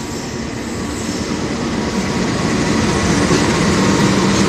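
KAI CC 206 diesel-electric locomotive hauling a container freight train through the station without stopping. Its engine and the wheels on the rails grow steadily louder as it draws alongside.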